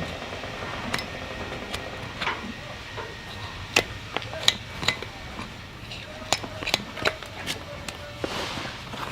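Irregular sharp clicks and taps of farrier's tools working on a hoof, about a dozen strikes, the loudest in the middle of the stretch.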